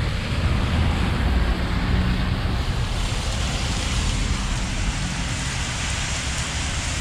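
Road traffic on wet pavement: a passing vehicle's low engine rumble that fades about two and a half seconds in, under a steady tyre hiss that grows toward the end.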